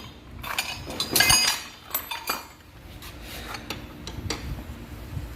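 Metal engine parts and hand tools clinking and knocking together during motorcycle engine teardown: a series of sharp metallic clinks with brief ringing, the loudest cluster about a second in.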